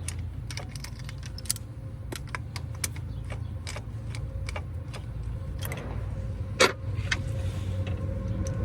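Irregular metallic clicks and taps of hand tools on the injector hold-down bolts of a Cat C7 Acert diesel engine, with one louder knock about six and a half seconds in, over a steady low hum.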